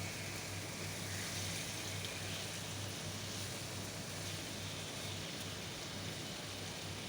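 Thin-sliced chicken skewers sizzling steadily in a pan of olive oil and butter, with a steady low hum underneath.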